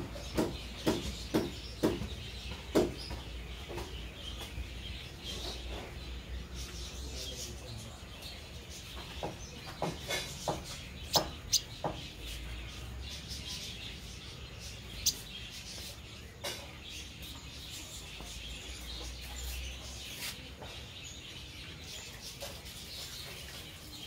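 Birds chirping: short, sharp calls in quick clusters at the start and again about ten seconds in, with a few single ones later. Underneath is a steady outdoor hiss and a low hum that stops near the end.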